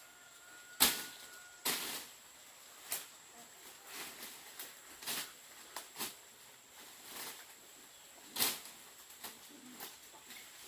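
A series of irregular sharp knocks, about a dozen, the loudest about a second in, over a faint steady high whine.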